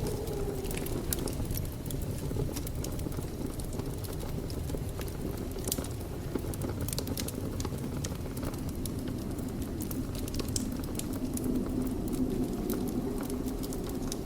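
Wood fire burning in a fireplace: a steady low rumble of flames with frequent sharp crackles and pops of burning wood.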